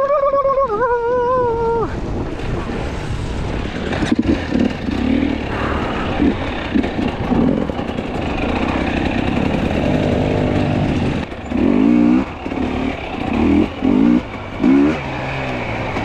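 Two-stroke enduro dirt bike engine running on the trail, with a series of short throttle blips in the last few seconds. A high wavering call sounds over it for the first couple of seconds.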